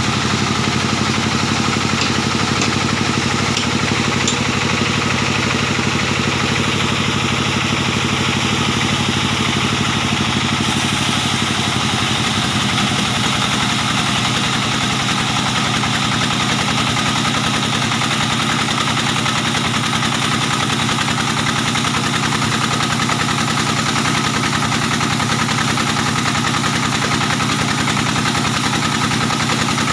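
Diesel engine driving a band sawmill, running steadily while the saw works through a large dry acacia log. About ten seconds in the sound shifts: more high hiss comes in and the engine's low note changes.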